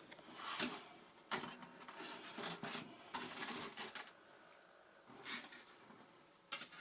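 Faint scraping, rustling and clicking as foam and plastic model-aircraft parts are handled and fitted together, in a few short bursts.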